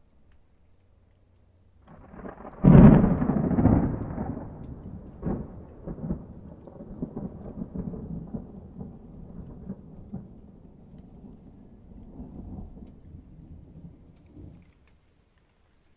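Thunder: a loud clap about two seconds in, followed by a low rolling rumble that fades unevenly over about ten seconds and dies away near the end.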